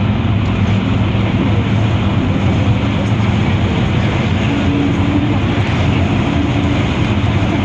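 Steady running drone of a moving vehicle, with a low hum under an even rushing noise.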